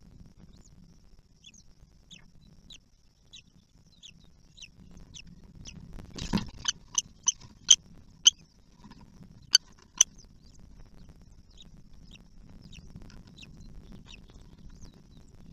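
Kestrel chicks and parent calling at the nest: short high, downward chirps repeat about twice a second. About halfway through, a brief noisy rustle is followed by a run of loud, sharp calls.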